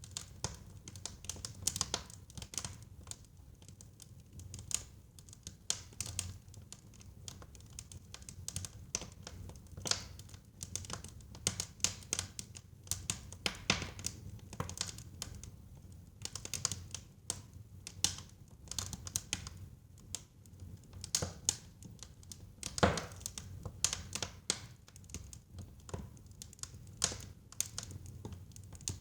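Wood fire burning in a fireplace: irregular crackling and snapping of burning logs over a low rumble of flames, with one louder pop near the end.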